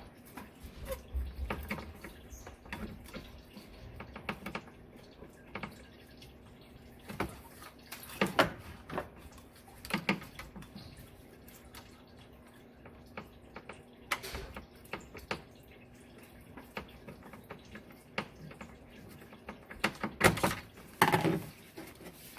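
Irregular clicks, clinks and knocks of hand tools on metal: a socket working loose the band clamp on a diesel truck's charge air cooler hose while the hose and pipe are handled, over a faint steady hum.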